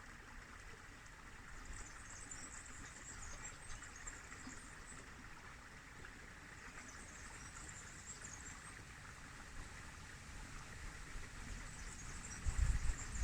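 River water flowing steadily, with clusters of faint high chirps every few seconds. Wind starts buffeting the microphone near the end.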